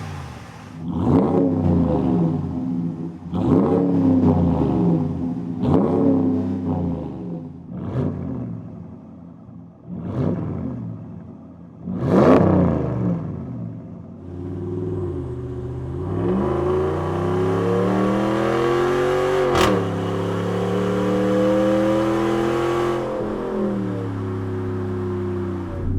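A Ram 1500's 5.7-litre Hemi V8 through a Borla ATAK dual exhaust, revved in about six quick blips. The truck then accelerates away, with the engine pitch dropping once at a gear change and climbing again before easing off near the end.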